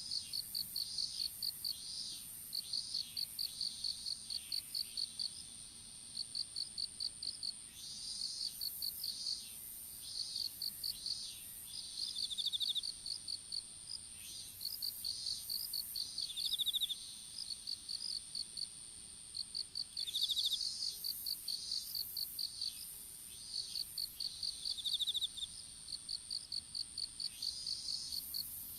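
Insects chirping in chorus: one steady high-pitched trill runs throughout, with runs of rapid, evenly spaced chirps starting and stopping every few seconds over it.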